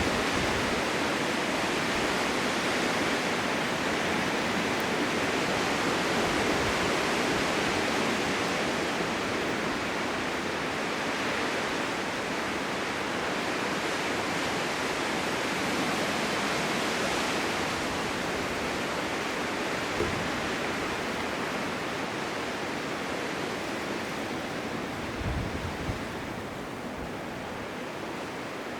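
Blizzard wind: a steady rushing noise that swells and eases slightly, with a couple of soft low thumps about two-thirds of the way in and near the end.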